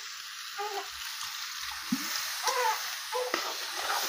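Potato curry sizzling in a hot steel kadhai on a gas stove, a steady hiss, with a slotted spoon stirring and scraping through it.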